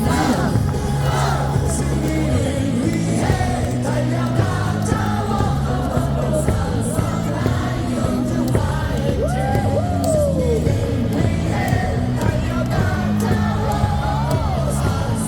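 Ballpark loudspeaker music with a steady bass line, with the crowd singing and yelling along.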